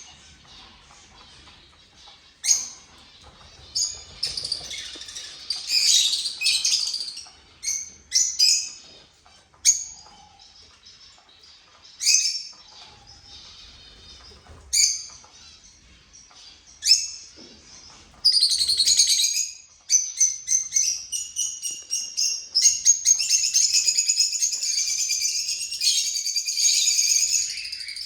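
Small cage birds chirping: sharp single high calls every second or two, then dense, continuous chattering from about two-thirds of the way in.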